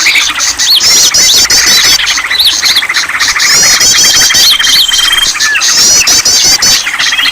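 Bird-lure chorus: many small songbirds chirping, squawking and whistling over one another in rapid repeated sweeping notes, with a long steady trill partway through.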